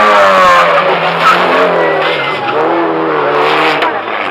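Race cars' engines running hard while tyres squeal through a corner. The squeal wavers in pitch, comes in two spells, and stops shortly before the end.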